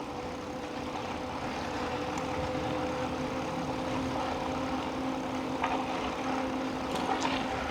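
Steady motor hum with a low drone under it, and a few faint clicks near the end.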